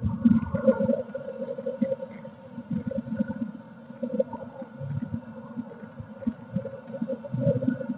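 Blue tit shuffling and settling inside a wooden nest box: irregular low scratchy rustles and soft bumps against the box, with a faint steady tone underneath.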